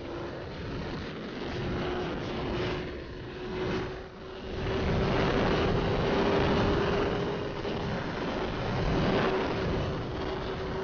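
Motorcycle riding at a steady speed, its engine holding one even note that grows louder about halfway through, under heavy wind rush on the microphone.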